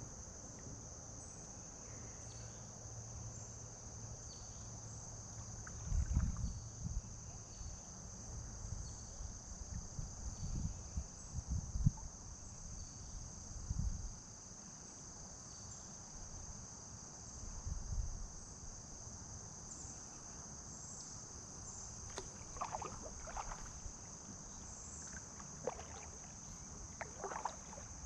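Steady high-pitched insect chorus beside a kayak on a river, with irregular low thumps and rumbles about six to fourteen seconds in and again around eighteen seconds, and a few short light taps or splashes near the end.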